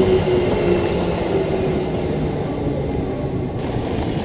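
Musashino Line commuter electric train running past and away over the rails: a steady rumble of wheels on track with a low humming tone that sinks slightly in pitch, slowly fading.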